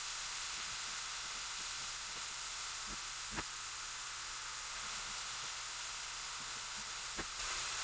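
Diced chicken and onions frying in coconut oil in a skillet on high heat: a steady sizzle with a few small pops.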